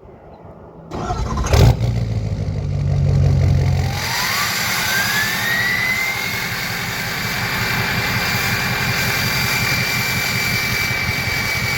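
Ford 6.0 Powerstroke V8 turbodiesel starting up about a second in, breathing through a freshly fitted 4-inch turbo-back exhaust, then idling. A few seconds after it catches, a turbo whistle rises in pitch for about two seconds and then holds steady over the idle.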